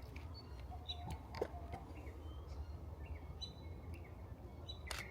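Forest birds giving short, scattered chirps and whistled calls over a steady low rumble, with a few sharp clicks, the loudest near the end.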